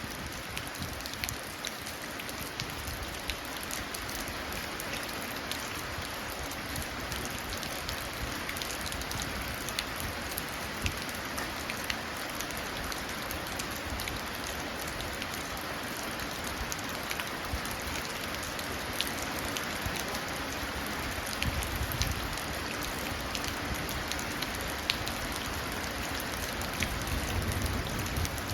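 Steady rain falling and running down into a puddle, with many sharp individual drop splashes over an even patter.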